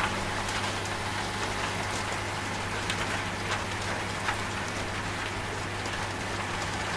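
Steady rain falling, with scattered separate drops, over the low steady hum of a washing machine running.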